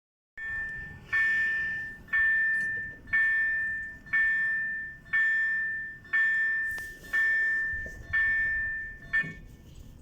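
Railway level-crossing warning bell ringing at a steady beat of about one strike a second, each ring dying away before the next. It stops a little before the end, the last strike cut short.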